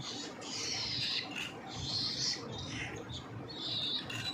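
Hand-fed parrot chicks giving raspy, hissing food-begging calls, about six short calls one after another.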